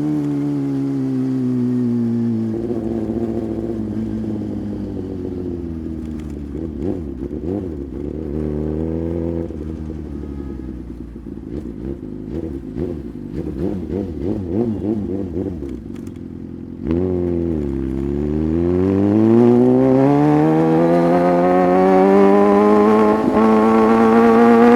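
Sport motorcycle engine: the revs fall as it slows, then it runs low and uneven for a long stretch. About seventeen seconds in it pulls away, the revs climbing steadily.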